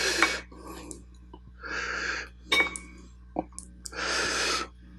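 Close-up eating sounds: three drawn-out breathy rushes of mouth noise as the spicy beef soup is taken in, with a few sharp clicks of utensils against the bowl between them.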